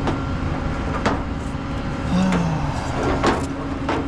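Tow truck engine running with a steady low rumble and hum, with a few sharp clicks and knocks: one about a second in and another about three seconds in.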